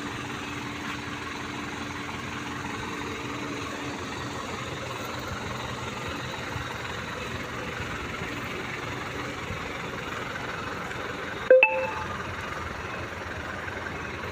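Mitsubishi Canter FE SHDX truck's four-cylinder diesel engine idling steadily. About three-quarters of the way through there is a single sharp knock with a brief ringing tone.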